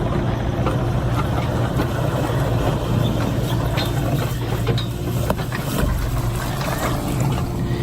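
Machinery running steadily with a low hum, with a few sharp clicks and knocks.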